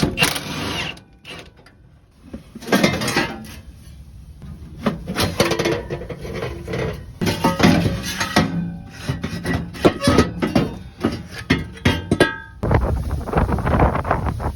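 Irregular metallic clanks and knocks of hand tools working on metal parts. Near the end comes about two seconds of harsh, dense noise that stops abruptly.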